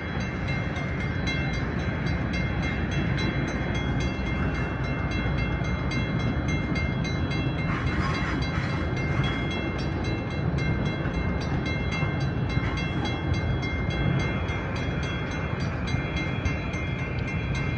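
Passenger train running beside the platform: a steady low rumble with a high whine of several steady tones over it. A short burst of hiss comes about eight seconds in.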